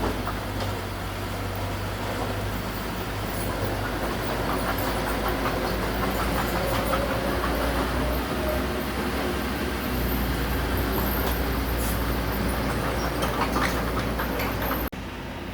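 Heavy diesel earthmoving machinery running at a steady hum, with irregular metallic clanking and rattling of the kind bulldozer tracks make. The sound drops suddenly near the end.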